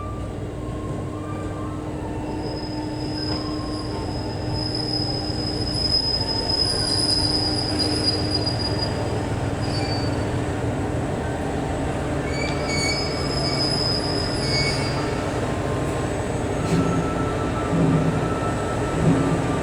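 Setsugekka resort train, an ET122-series diesel railcar set, moving slowly through the station with its diesel engine running. Its wheels squeal in high, thin tones in two stretches, against the rails on curves and points.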